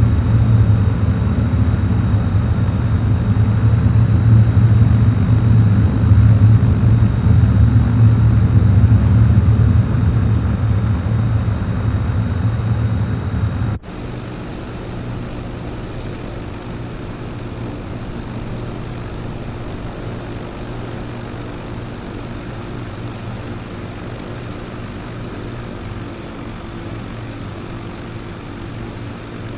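Propeller aircraft engine running on a landing in strong wind. A loud low rumble drops off abruptly about halfway through to a quieter, steady engine drone with a few held tones.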